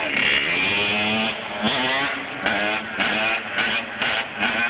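Off-road engine revving hard, its pitch climbing through the first second, then throttled up in a string of short bursts about twice a second.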